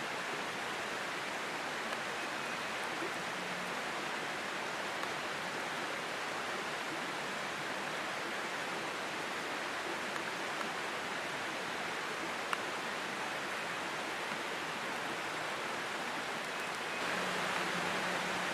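Steady rush of running creek water, growing slightly louder near the end, with a faint click once in the middle.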